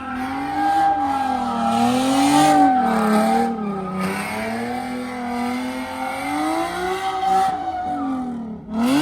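Car engine held at high revs, its pitch swinging up and down, while the spinning tyres squeal in a burnout. Near the end the revs drop and then climb sharply again.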